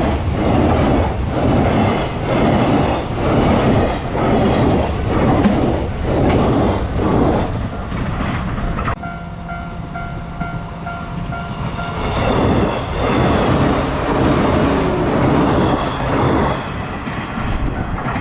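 A train passing close by, its wheels clattering in a steady rhythm over the rail joints. About halfway through the clatter briefly drops, and a steady ringing tone, the level crossing's warning bell, comes through for a few seconds before the clatter returns.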